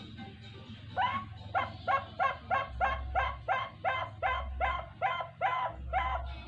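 An animal calling in a fast, even series of about fourteen short pitched calls, roughly three a second, starting about a second in.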